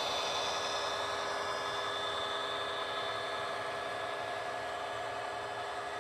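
Train rolling past with a steady mechanical whine over a rushing noise, slowly fading.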